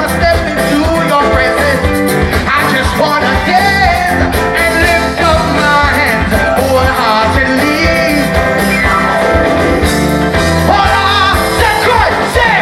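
Up-tempo soca-style gospel music from a live band, with a steady driving beat and singing.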